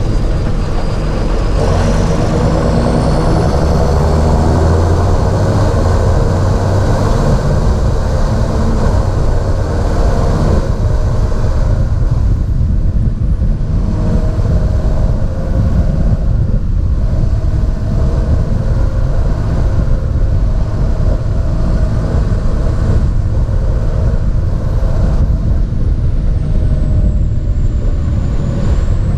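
The six-cylinder diesel engine of a John Deere 7430 Premium tractor running steadily and loudly, with a deep engine note. About ten seconds in, the higher-pitched mechanical noise drops away and the engine note carries on more evenly.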